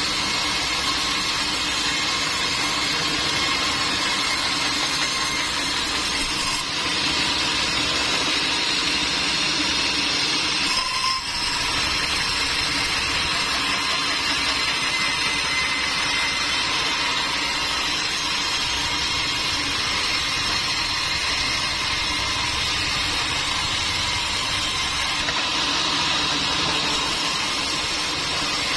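Sawmill machinery running steadily: a constant mechanical drone with a high, even whine.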